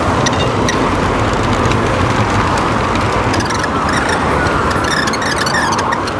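Steady road traffic noise, with light scattered clicks and rattles over it.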